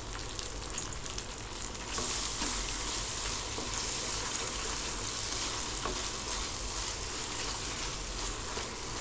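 Tomatoes and shallots sizzling as they fry in hot sesame oil in a stainless-steel kadai, stirred with a wooden spatula. The sizzling gets a little louder about two seconds in.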